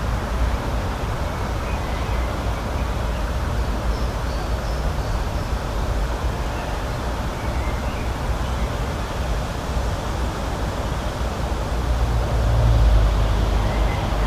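Steady outdoor rushing noise with a low rumble that swells about twelve seconds in, and a few faint, short bird chirps high above it.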